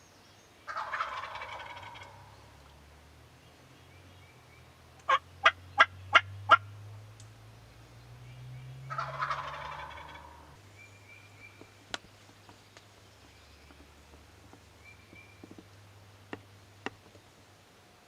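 Wild turkey gobbler gobbling twice, about eight seconds apart, with a quick run of five short sharp notes between the gobbles.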